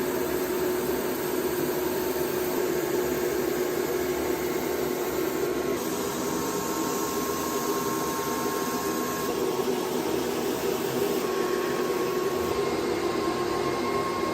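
Steady whir and hum of running woodworking or mill machinery, its tone shifting abruptly a few times.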